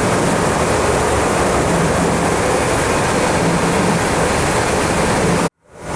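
Loud, steady rushing of air with a faint low hum underneath. It cuts out abruptly for a moment near the end, then returns.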